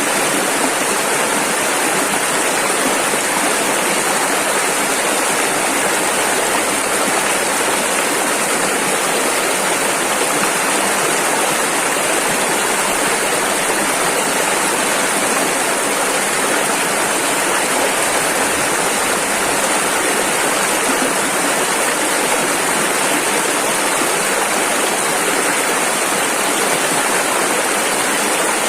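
A rushing river, its water flowing steadily with an even, full hiss and no breaks.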